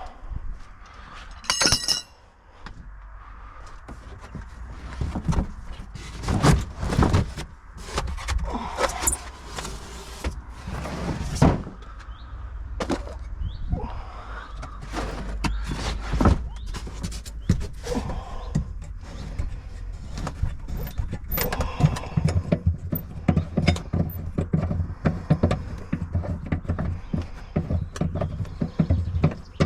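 Repeated knocks, clicks and clanks of hand tools and metal car parts being handled while a car is stripped down, with a brief high metallic ring about two seconds in. A steady low hum runs underneath.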